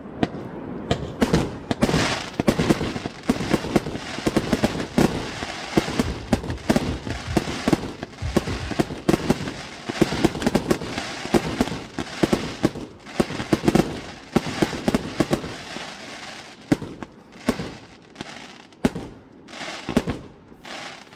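Fireworks display: a dense, rapid volley of bangs and crackling, thinning into separate bangs near the end.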